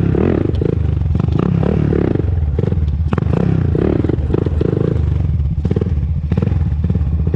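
Honda TRX400EX ATV's single-cylinder four-stroke engine running steadily while riding, with no ticking noise to be heard.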